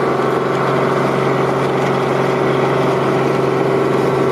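Helicopter engine and rotor drone heard from inside the cabin in flight, a steady, unchanging hum with a strong low tone.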